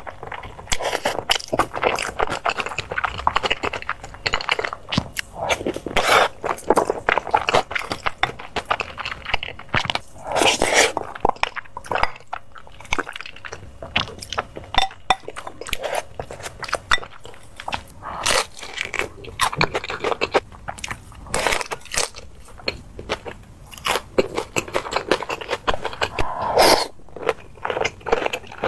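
Close-miked eating: crunchy bites and chewing, heard as irregular clusters of sharp crackling clicks.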